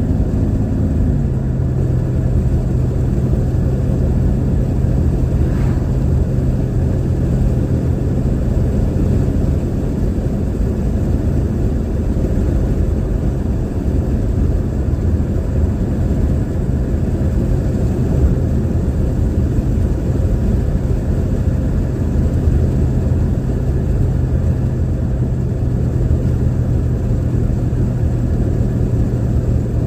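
Car engine and road noise heard from inside the cabin while driving: a steady low drone whose pitch drops slightly about a second in, then holds. It is the owner's noisy car.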